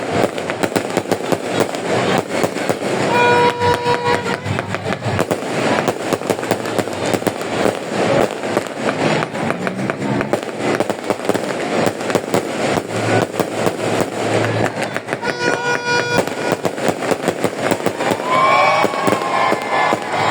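New Year fireworks exploding in a dense, continuous barrage of rapid cracks and pops. A short steady horn-like tone sounds twice, and near the end gliding whistle-like tones rise over the crackle.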